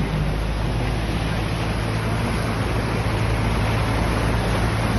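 Steady rush of water from the rainstorm and flooding, with a low, steady engine hum underneath.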